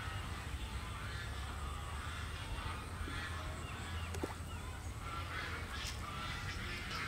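Outdoor ambience of birds calling, with a steady low hum underneath and a short click about four seconds in.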